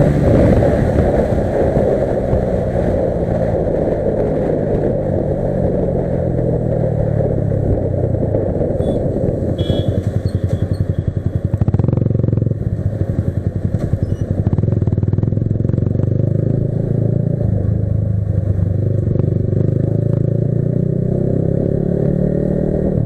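Modified Yamaha R15 V3's single-cylinder engine running as the bike is ridden: the engine note falls over the first few seconds, dips again around the middle, and rises near the end as the throttle opens.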